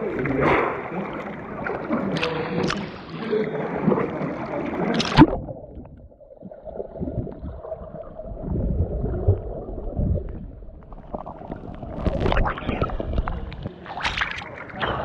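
Water splashing around a GoPro camera. About five seconds in there is a sharp splash, after which the sound goes muffled and low with gurgling. Clearer splashes return near the end.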